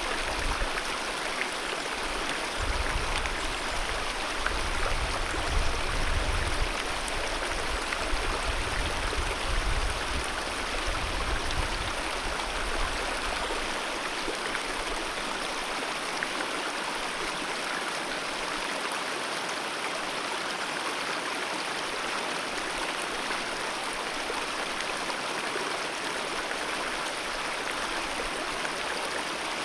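Alpine mountain river rushing over its bed, a steady, even wash of water noise. A low rumble comes and goes in roughly the first twelve seconds.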